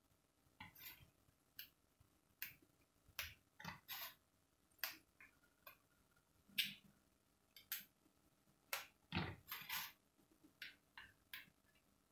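Thin fresh green beans being snapped by hand as they are trimmed. An irregular string of short, sharp snaps, about two a second.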